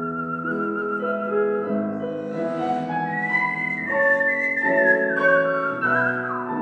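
Human whistling a melody over instrumental accompaniment, the whistled line gliding down near the end.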